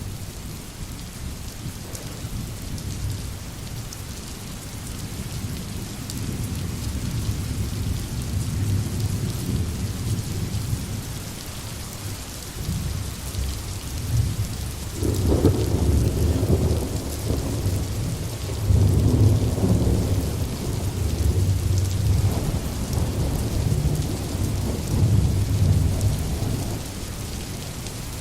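Steady rain falling, with thunder rumbling underneath. The rumbles grow stronger past the middle and swell loudest twice, about halfway through and a few seconds later.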